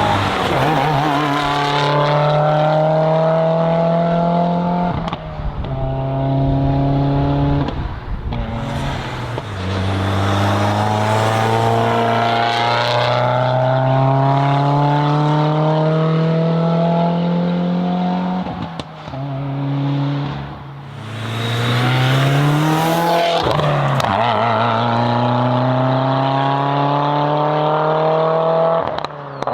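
Subaru WRX's turbocharged FA20 flat-four running through a titanium valved cat-back exhaust under load, pulling through the gears. The engine note climbs steadily, then drops at each of several shifts.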